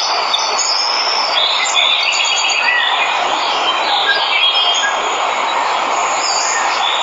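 Steady rush of a waterfall, with many birds chirping and trilling over it.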